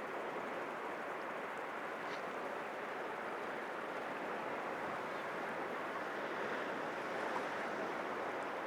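Atlantic surf washing against rocks in a steady, unbroken rush of sea noise.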